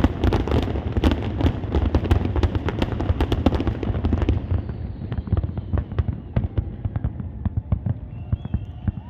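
Fireworks display: a dense barrage of rapid cracks and bangs over a low rumble, thinning out about four seconds in to scattered cracks.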